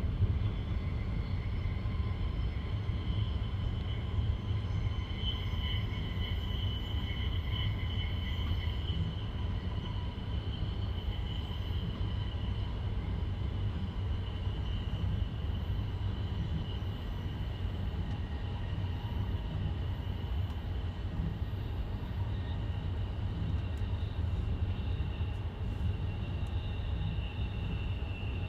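Passenger train running along the track: a steady low rumble of wheels on rails, with thin high whining tones above it.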